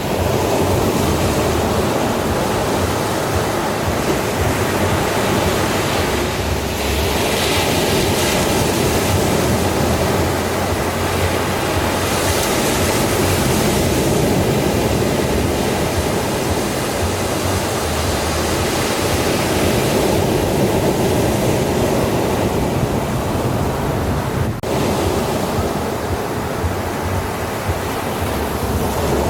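Sea waves breaking and washing on a shore, a continuous surf roar that swells now and then.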